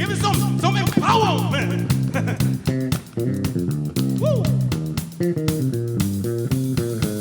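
A funk band playing live: a busy, rhythmic bass-guitar line leads, with guitar and drums behind it.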